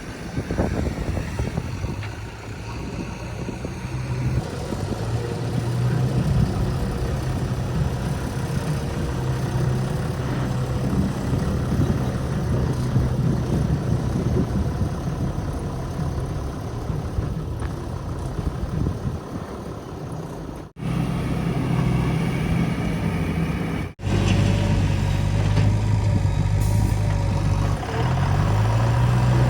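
Diesel engines of backhoe loaders and trucks running steadily, with the engine pitch shifting as the throttle changes near the end. The sound cuts out abruptly twice, a little past two-thirds of the way through.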